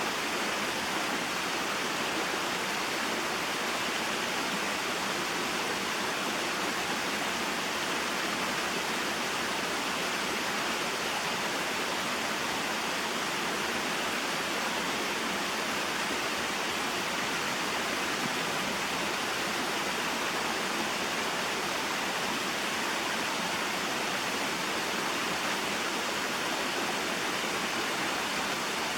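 Small waterfall spilling into a mountain stream: a steady rush of flowing water.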